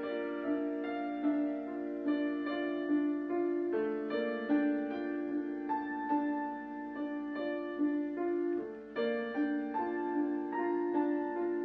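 Slow, gentle solo piano music playing sustained chords and a soft melody.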